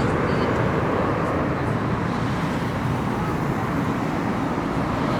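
Jet airliner engines rumbling steadily during a takeoff climb-out, easing slightly.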